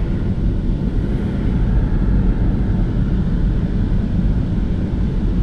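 Automatic car wash machinery working over the car, heard from inside the closed cabin: a steady, even low rushing noise.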